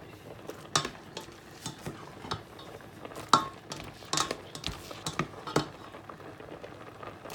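A metal utensil clinking and knocking against a cooking pot in irregular strokes, with the loudest knock about three seconds in.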